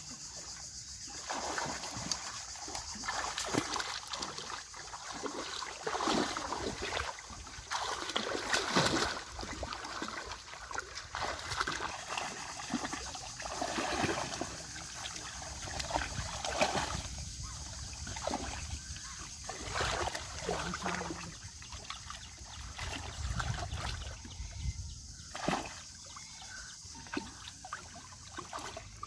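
Shallow pond water splashing and sloshing in irregular bursts as hands grope through it to catch fish.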